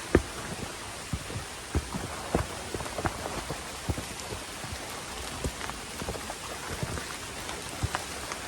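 Steady rain falling in forest, with many irregular sharp taps of drops striking close by.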